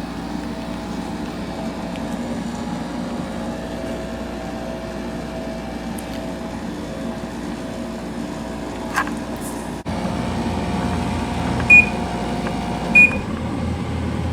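Samsung 10,200 BTU window air conditioner running steadily, its compressor and fan humming. Near the end its control panel beeps twice as it is switched, and the low compressor hum drops out after the second beep as the unit goes to fan-only.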